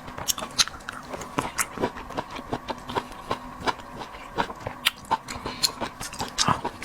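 Close-miked eating: irregular wet smacks, clicks and chewing of a mouthful of seafood.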